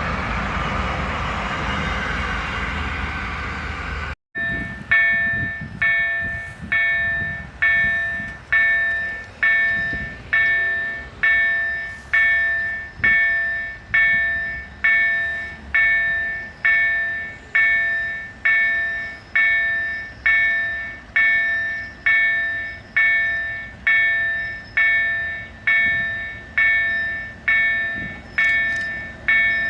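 Freight train running past, a steady noise with no distinct tones. After an abrupt cut about four seconds in, a level-crossing warning bell dings about once a second, each ring fading before the next.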